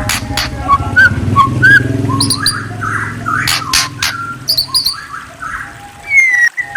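A magpie-robin (murai) singing: a run of short whistled notes that glide up and down, mixed with sharp clicks. A low steady hum sits underneath for the first few seconds, then fades out.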